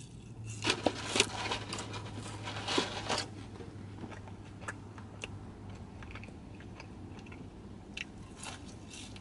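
A person biting and chewing McDonald's food close to the microphone: a dense run of crunchy mouth clicks in the first three seconds, then sparser ones, over a faint low steady hum.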